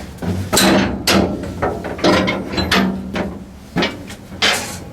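A series of loud, irregular metallic clanks and bangs from railroad equipment, about seven in a few seconds, each ringing briefly.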